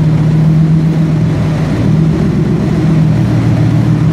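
Turbocharged Ford Coyote 5.0 L V8 with a short-runner sheet-metal intake idling steadily at about 900 rpm.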